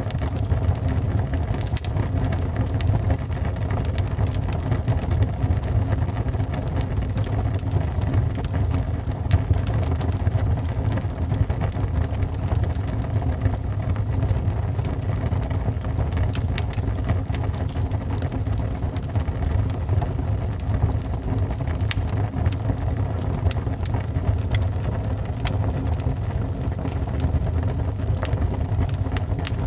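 Wood fire burning in a fireplace: a steady low roar with scattered crackles and pops throughout.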